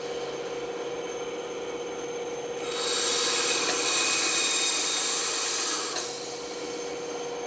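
Band saw running with a steady hum, its blade cutting into wood from about three seconds in to about six seconds, a louder hissing rasp that stops when the cut ends.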